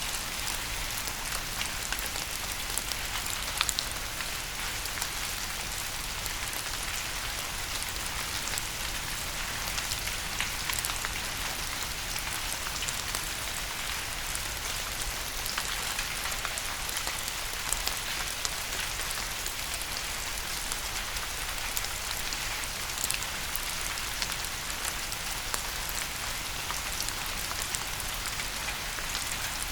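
Steady rain falling, with many individual drops ticking sharply on a hard surface through an even hiss.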